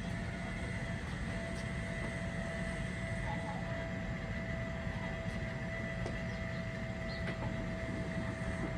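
Steady machine hum: a low rumble with a constant whine held on two steady pitches, and a few faint clicks.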